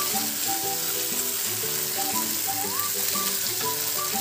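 Ground spinach sizzling as it fries in a pan, stirred with a wooden spatula, with a steady hiss. Soft instrumental background music plays throughout.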